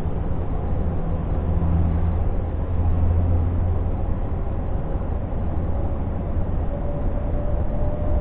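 Scania G460 truck's 13-litre straight-six diesel running under way, heard from inside the cab as a steady low drone that swells for a couple of seconds about two seconds in. A faint whine rises slightly in pitch near the end.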